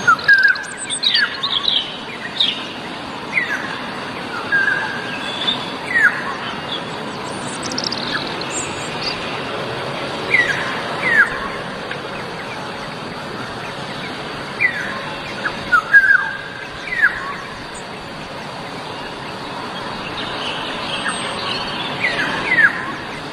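Black-naped oriole calling: short, clear whistled notes that slide sharply in pitch, given in small clusters every few seconds over a steady outdoor hiss.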